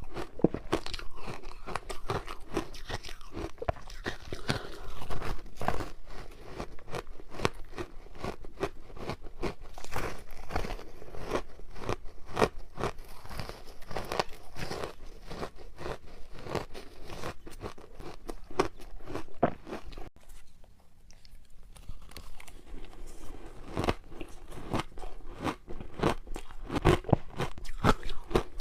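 A frozen matcha ice ball being bitten and chewed, with dense, irregular crunching and crackling of ice between the teeth. There is a short lull about two-thirds of the way through.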